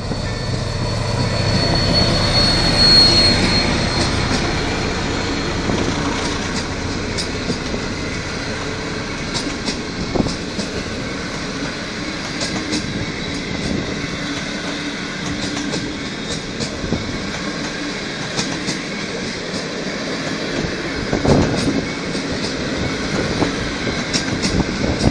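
A locomotive-hauled passenger train passing close by: the diesel locomotive's rumble builds and is loudest about three seconds in, then the coaches roll past steadily with wheels clicking regularly over the rail joints.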